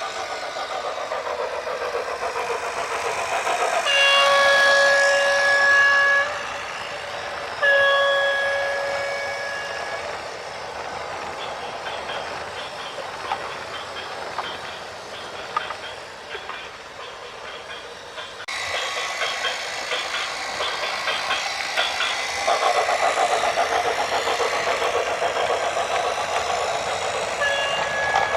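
A vehicle horn sounds two long, steady blasts, about four and eight seconds in, with a third starting at the very end, over continuous vehicle running noise.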